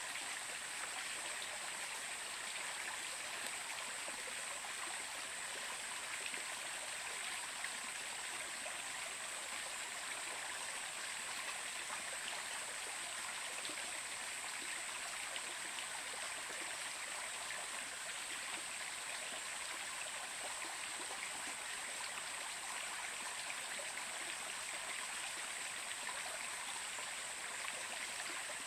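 A stream running steadily, an even, unbroken water sound with a high hiss.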